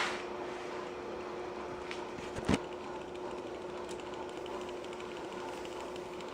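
Homemade soda-can alcohol stove burning under a small cup of water: a soft, even rushing with a steady hum beneath it. A single sharp click comes about two and a half seconds in.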